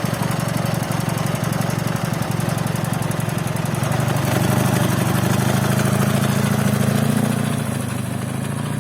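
Soviet flat-twin motorcycle engine (Ural/Dnepr) running steadily, its revs rising a little around the middle and easing off near the end.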